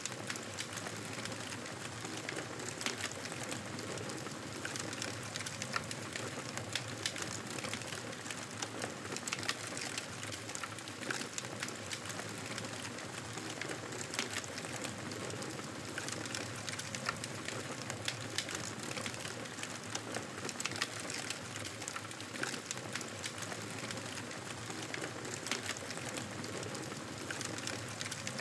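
Campfire burning: a steady hiss with frequent irregular crackles and pops of burning wood.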